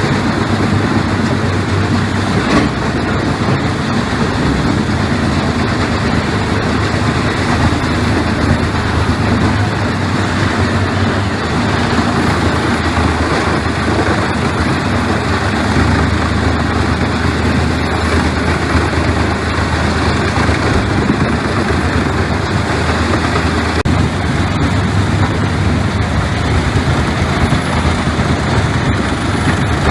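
Heavy machinery running steadily: a constant low engine hum under a loud, even mechanical noise.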